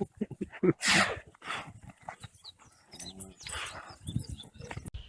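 Short animal calls among scattered knocks and scuffles: a loud short cry about a second in and a brief pitched call a little after three seconds.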